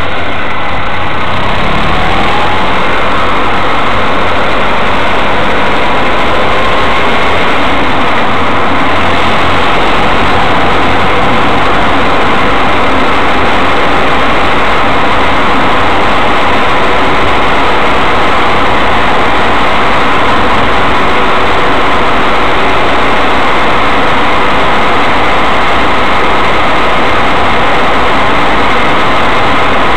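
Mazda 3 running and driving slowly: a loud, steady mix of engine and road noise.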